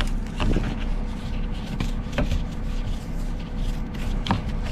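A car engine running steadily, with three sharp clicks or crunches over it.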